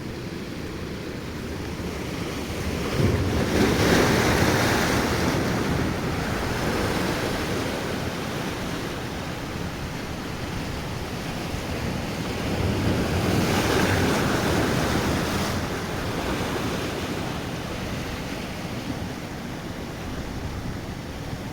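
Sea surf washing onto the shore, a steady rush with two bigger waves breaking, one a few seconds in and one about two-thirds of the way through, with wind buffeting the microphone.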